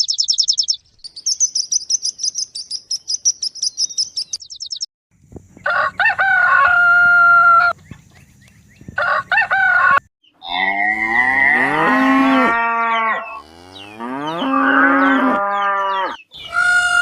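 Chickens calling: a fast, high trill of chirps for the first few seconds, then a series of loud pitched calls, the later ones longer and drawn out like rooster crows.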